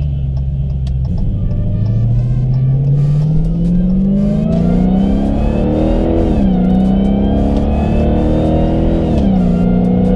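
Dodge Challenger SRT Hellcat's supercharged V8 accelerating hard: the engine note climbs steadily through one gear, drops sharply at an upshift about six seconds in, climbs again, upshifts again near the end, then holds a steady pitch.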